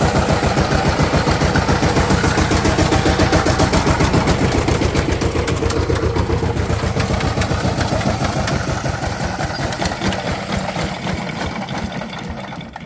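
Diesel engine running with an even beat of about five pulses a second, gradually fading and slowing over the last few seconds.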